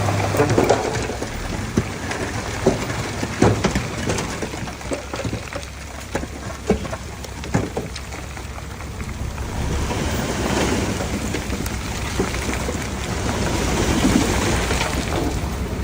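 Komatsu D31P bulldozer working: a steady low engine hum with scattered sharp clanks and knocks, and a rushing, gritty noise that builds about ten seconds in.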